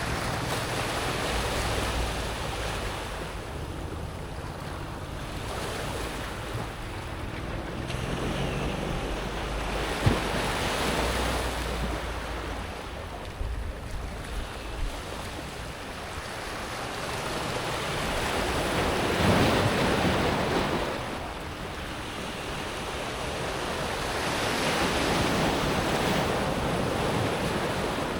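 Small sea waves breaking on a pebble beach and washing back over the smooth stones, in slow swells every several seconds, with wind rumbling on the microphone. A single sharp click about a third of the way through.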